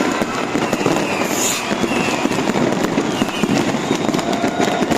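Dense, continuous crackling and banging of New Year's fireworks and firecrackers, many going off at once in a steady barrage.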